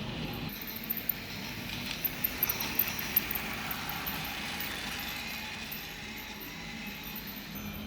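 RailKing O-gauge model steam train running on its track: a steady running noise with a low hum, and a quick run of sharp clicks about two to three seconds in.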